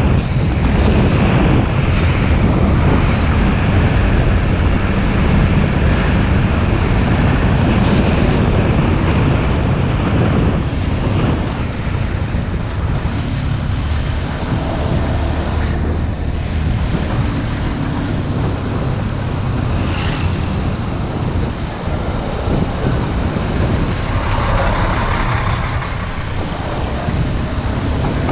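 Motorbike riding along a road: steady engine and road noise, with wind buffeting the microphone.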